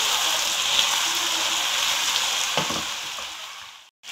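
Fish pieces in yogurt masala frying in ghee in a kadai: a steady hiss of sizzling oil as the masala is fried down, with a brief low knock about two and a half seconds in. The sizzle fades near the end and cuts off.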